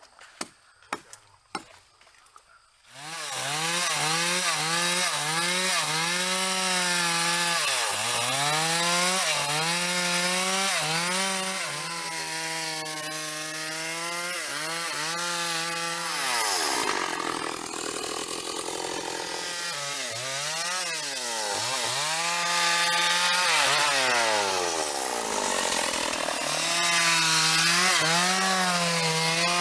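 A power saw starts about three seconds in after a few faint clicks and runs loudly with a hiss. Its motor pitch sags again and again as it takes load and then recovers.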